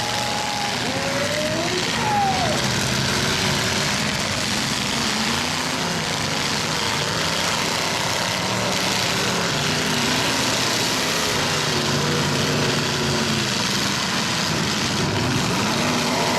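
Demolition derby trucks' engines running together, their pitch rising and falling as they rev.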